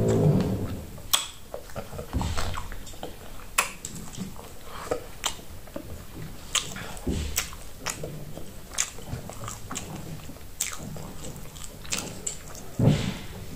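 Close-miked mouth eating sounds of soft fufu being chewed with the mouth full: irregular sharp, wet clicks and lip smacks.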